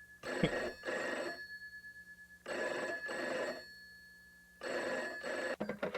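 Telephone ringing with a double ring: three ring-ring bursts about two seconds apart, followed by a few short clicks near the end.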